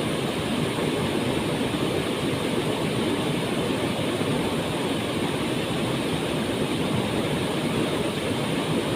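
Waterfall: a steady, unbroken rush of falling water, deepest and fullest in the low and middle range.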